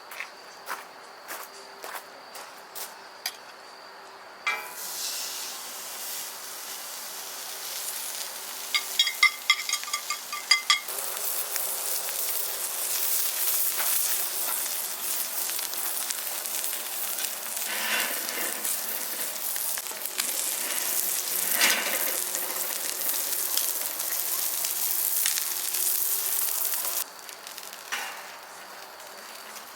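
Steak sizzling in a hot skillet: a hiss begins about four seconds in and becomes a loud, steady sizzle from about eleven seconds, after a quick run of metallic clinks. It cuts off suddenly near the end.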